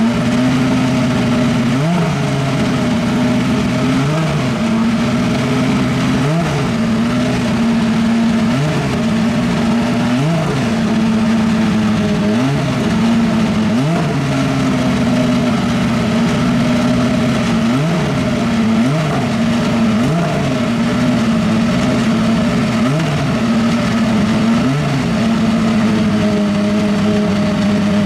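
Honda 2.0-litre turbocharged four-cylinder engine of a Super Formula car warming up: a steady high idle broken by short throttle blips about every two seconds, each a quick rise and fall in revs.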